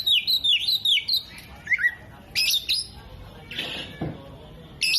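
Oriental magpie-robin singing: a quick run of falling whistled notes, then separate sharp chirps and a short glide, with a rougher, harsher call a little before the four-second mark.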